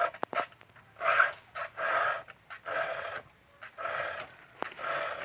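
Round file rasping over a chainsaw chain's cutter teeth in repeated strokes, about one a second, with light metallic clicks between strokes: the chain being sharpened by hand.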